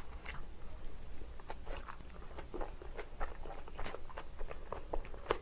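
Close-miked chewing of a spicy Korean dumpling (mandu): irregular soft mouth clicks and smacks, a few each second.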